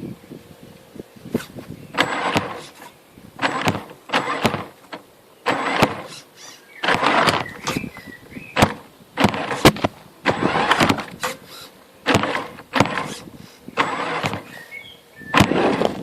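Radio-controlled Tamiya CC-01 truck's electric motor and gearbox whirring in many short throttle bursts, stop-start, as it crawls over rough obstacles on road tyres.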